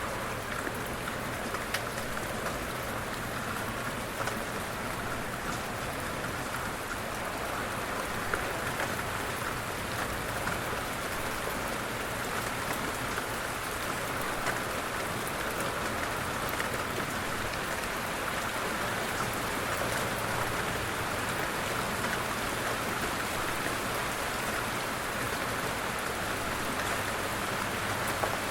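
Light rain falling steadily, a continuous soft hiss of drops with scattered individual drop ticks.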